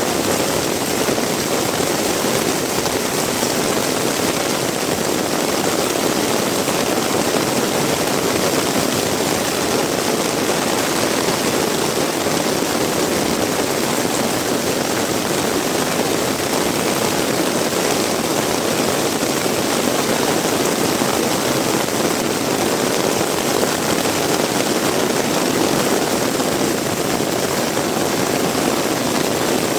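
Heavy rain falling steadily, a dense, even hiss and rush that holds the same level throughout.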